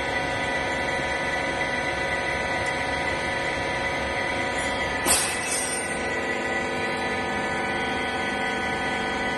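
Hydraulic wiper-rag baler running: a steady machine hum with a constant whine, and one sharp clank with a short hiss after it about five seconds in.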